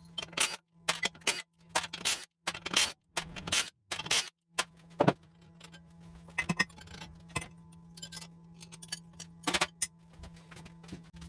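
Metal hand tools and engine parts clinking and knocking in a quick, irregular series of sharp clicks, over a steady low hum.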